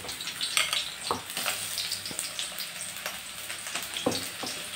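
Chopped onion sizzling in hot mustard oil in a kadai, a steady hiss with a few sharp knocks as it is stirred.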